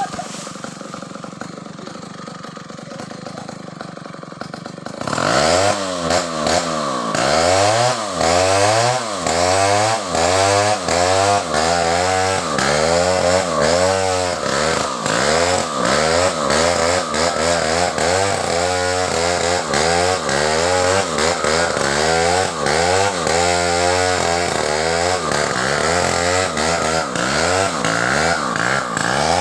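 Stihl chainsaw quieter for about the first five seconds, then run at full throttle with its engine pitch dipping and recovering about once a second as the chain bites into and clears coconut-palm wood.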